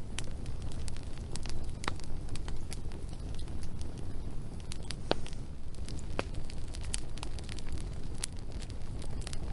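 Wood fire burning: a steady low rumble with irregular sharp crackles and pops from the burning logs, a few of them louder than the rest.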